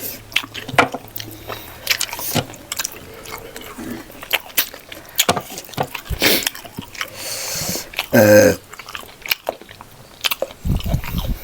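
Close-up eating sounds of a person chewing and biting a meal of rice with pork leg gravy: many small wet mouth clicks and smacks. A brief vocal sound about eight seconds in, and a short low thump near the end.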